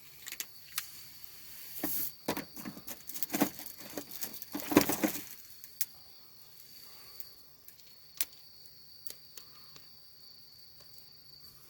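Small clicks, taps and rustles of bottles and a dish being handled while a shichimi-and-soy-sauce dip is mixed, thinning to occasional ticks after about six seconds. A steady high insect trill runs underneath.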